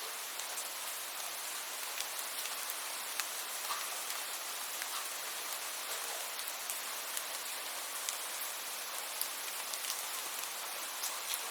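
Steady rain: an even high hiss with many scattered sharp ticks of single drops hitting nearby.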